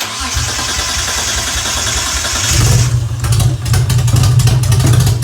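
Mitsubishi 3000GT SL engine running through its exhaust, getting louder and deeper from about two and a half seconds in.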